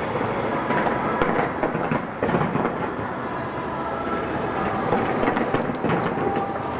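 Fireworks display: a continuous rumble of many shells bursting in quick succession, with sharp crackles, thickest near the end.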